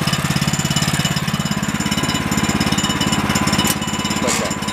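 Single-cylinder gas engine of a Woodland Mills HM130 Max portable sawmill running steadily with a fast, even thumping beat.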